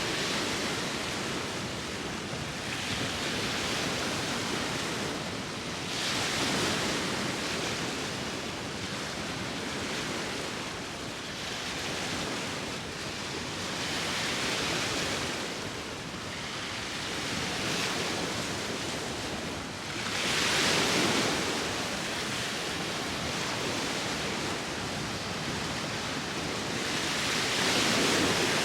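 Sea waves breaking and washing ashore, with wind. The rush swells and ebbs every two to three seconds, with a bigger surge about twenty seconds in.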